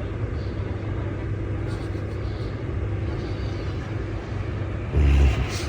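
Outdoor background of a steady low rumble with faint voices, and a short, loud low thump about five seconds in.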